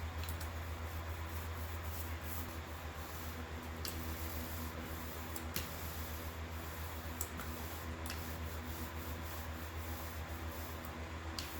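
Faint rubbing and squishing of a roller working resin into fiberglass layers, with a few light clicks, over a steady low electrical or fan hum.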